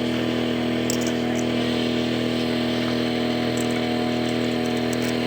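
Air compressor running with a steady hum.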